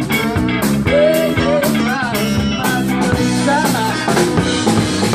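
Live blues-rock band with electric guitar and drum kit playing a song, its rhythm steady. A male vocal sings a word near the end.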